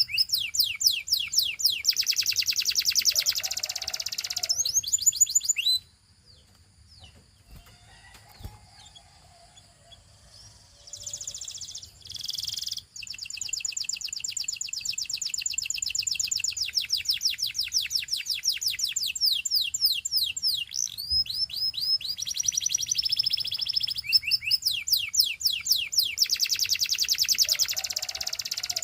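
Canary singing: long fast trills of repeated high notes with rolling phrases, breaking off about six seconds in for a pause of several seconds before it sings on.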